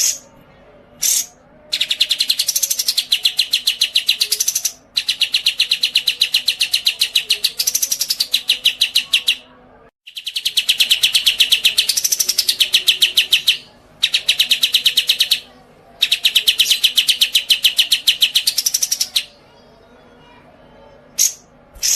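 A songbird singing long, rapid trills of evenly repeated high notes, each lasting several seconds with short breaks between them and a rising-and-falling sweep inside each trill; a few short single chirps come near the start and the end.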